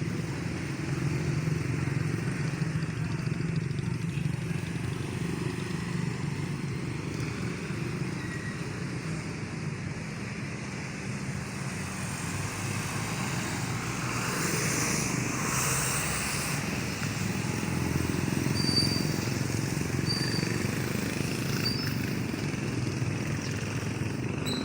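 Classic car engine idling with a steady low rumble. A few short high chirps sound in the last third.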